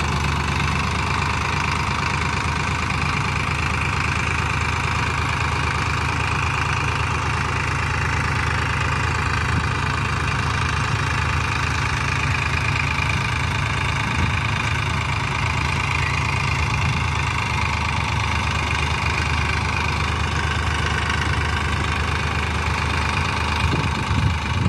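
Sonalika 50 RX tractor's diesel engine running steadily at an even speed.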